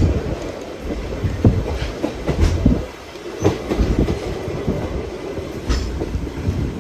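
Oigawa Railway train running along the track, its wheels rumbling and clacking irregularly over the rail joints.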